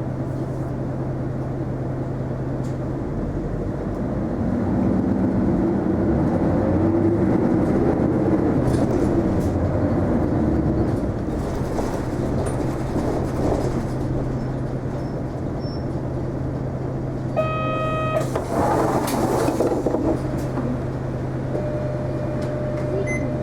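Inside a city bus, an Isuzu Erga non-step: a steady engine hum, louder running noise for several seconds early on, then steady again. Near the end comes a short multi-tone chime, a brief rush of noise, and a steady electronic tone.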